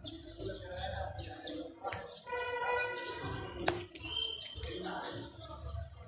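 Small birds chirping in quick, repeated short falling notes, among trees along a street.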